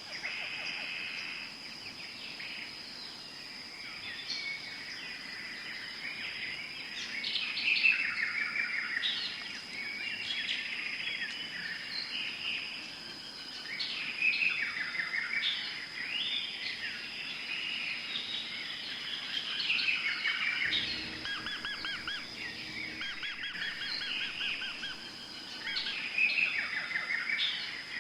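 Tropical forest birds singing and calling, many overlapping chirps and quick trills, over a steady high-pitched insect drone. A brief low rumble comes in about three-quarters of the way through.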